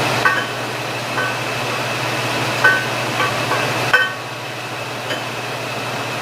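Light metal clinks, about six of them, each with a short ring, as steel parts of a jackshaft assembly are handled and taken off. A steady machinery hum runs underneath.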